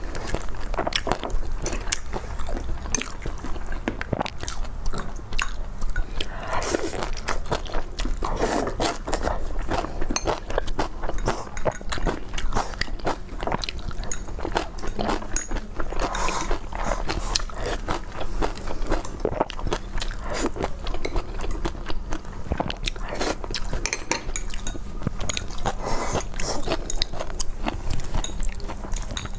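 Two people eating a Chinese home-cooked meal: continuous biting and chewing with wet mouth sounds, made up of dense irregular clicks and smacks.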